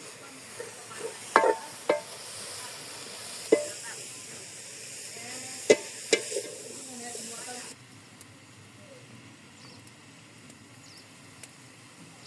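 Food sizzling in a hot pot while it is stirred, with about five sharp clinks of a utensil striking the pot. The sizzle stops abruptly about three quarters of a second before the eighth second, leaving a quieter background.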